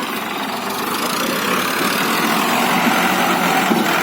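Tractor engine running steadily, growing a little louder about a second in.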